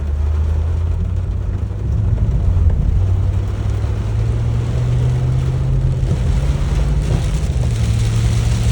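2008 Hummer H3 Alpha's V8 engine pulling under acceleration, its pitch climbing from about two seconds in and stepping down near the end. A hiss of water from the wet road under the tyres grows louder over the second half.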